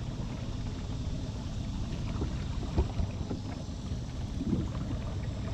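Steady low rumble of a small boat under way on a creek, with two sharp knocks a little under three seconds in.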